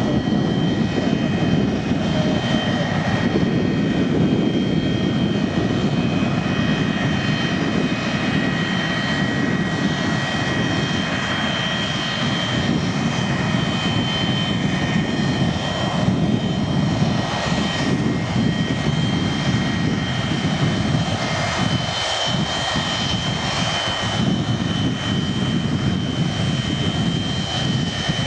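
Boeing 727-200's Pratt & Whitney JT8D turbofan jet engines running steadily: a dense rumble with a high, steady whine.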